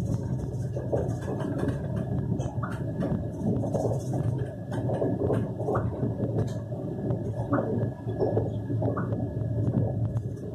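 Inside an Indian Railways express passenger coach running at speed: a steady low rumble of wheels on rail, with irregular clicks and knocks from the wheels.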